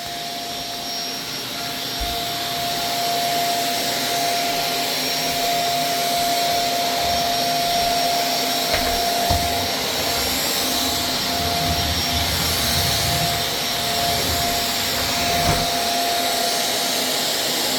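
Vacuum cleaner running steadily, a constant motor whine over a broad rushing noise, with a few low thuds as it is moved about.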